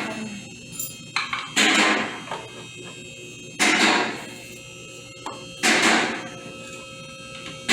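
Hand ratchet wrench working bolts on a Ford AOD automatic transmission: four rasping ratchet strokes about two seconds apart, each starting with a sharp click.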